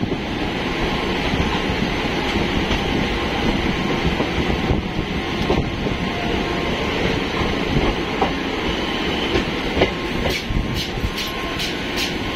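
Electric multiple unit (EMU) local train running, heard from on board: steady wheel-on-rail noise, with a quick series of clicks near the end.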